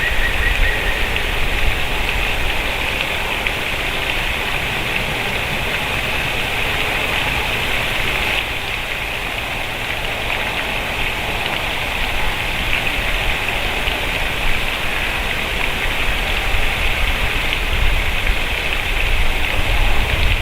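A steady, even hiss of outdoor noise with a low rumble underneath. A thin high tone fades out about a second in.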